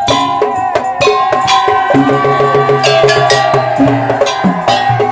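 Madurese daul (tong-tong) music: fast, dense strikes on wooden slit drums and drums in a steady rhythm under a held melody line.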